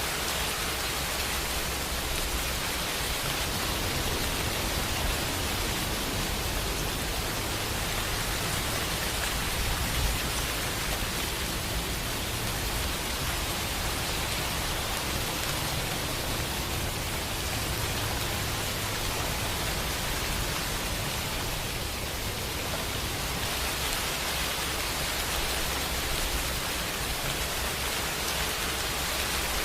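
Steady rain falling, an even dense hiss across the whole range, with a low rumble swelling and easing underneath.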